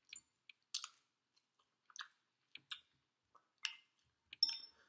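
A person chewing a mouthful of fried chicken close to the microphone: a run of short, separate wet mouth clicks, about two a second, with a brief ringing click near the end.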